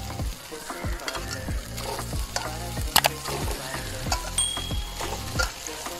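Soaked, squeezed-out soya chunks frying in a little hot oil in a nonstick pan, sizzling, with scattered soft clicks and knocks as more pieces are dropped in.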